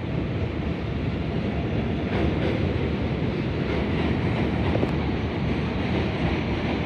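New York City subway train running on the rails, a steady rumble of wheels on track with a few faint clicks.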